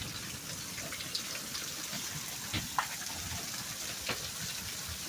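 Steady rain falling, a constant hiss with a few sharp ticks of drops striking now and then.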